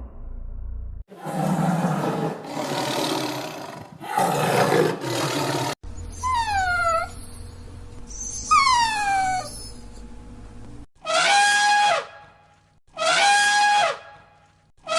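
A run of different animal calls one after another: rough, noisy roaring calls at first, then two high whistles that slide downward in pitch, then three short, evenly spaced calls that each hold one steady tone.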